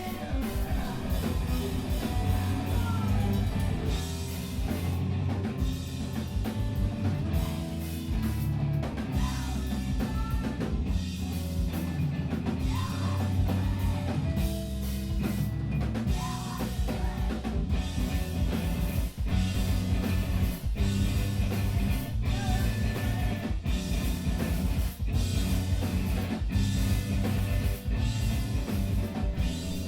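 Live screamo band playing loud: distorted electric guitars and bass over a driving drum kit.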